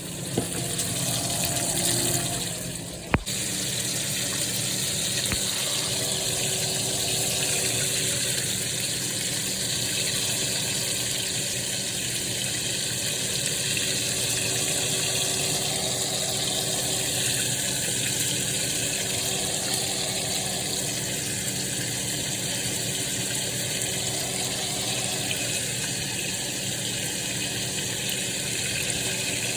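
Bacon frying in a pan: a steady sizzling hiss, with a low steady hum underneath and one sharp click about three seconds in.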